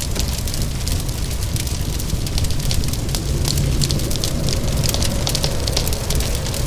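Wood fire crackling with many irregular sharp pops, over steady rain and a low rumble.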